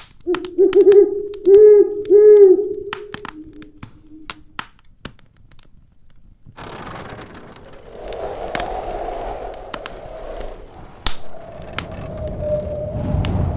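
Wood fire crackling in a fireplace with sharp pops throughout, under snowstorm wind: a pitched howl rising and falling in gusts during the first few seconds, then a noisy whistling gust from about halfway. A low thunder rumble builds near the end.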